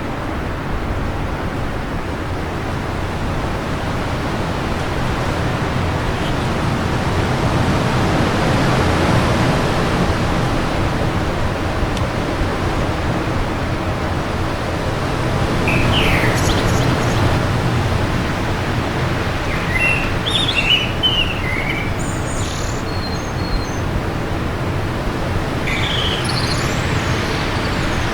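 Wind blowing steadily, swelling and easing in gusts. Birds chirp in short scattered calls from about halfway through.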